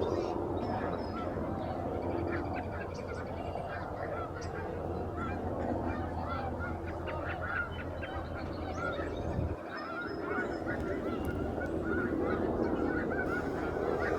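A large flock of wild geese honking: a dense, continuous chorus of many overlapping calls.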